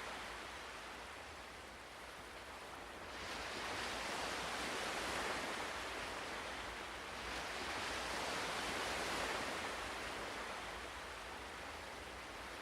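Ocean waves washing in and out: a steady surf hiss that swells twice and ebbs back.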